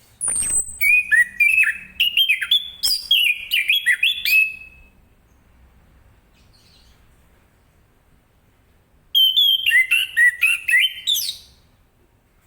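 Chestnut-capped thrush singing two phrases of rapid, varied, sweet whistled notes, about four and two and a half seconds long, with a pause of several seconds between them.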